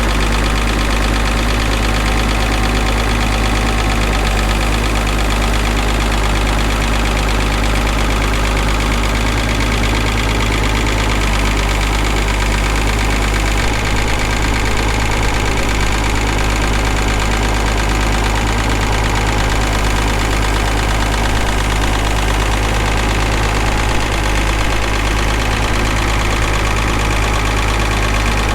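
An engine idling steadily, a low, even drone with a light knock.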